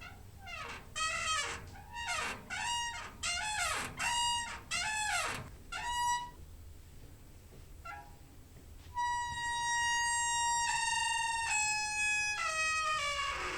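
Creaking door hinge squeaking: a quick run of short squeaks that bend in pitch, then after a pause one long drawn-out squeak that steps down in pitch several times.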